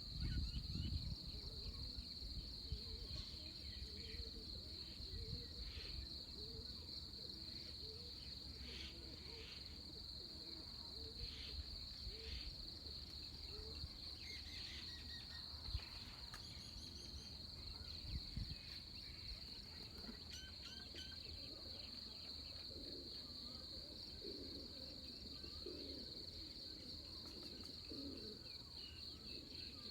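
Steady, high-pitched drone of crickets or other night insects, with scattered short bird chirps and calls over a low rumble.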